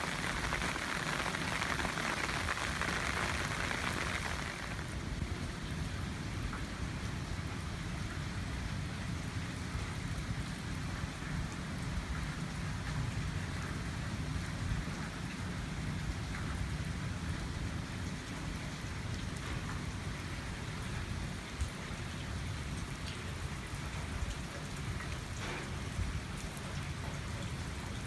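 Steady typhoon rain with a continuous low rumble underneath. The rain hiss is strongest for the first four or five seconds, then eases a little and stays even.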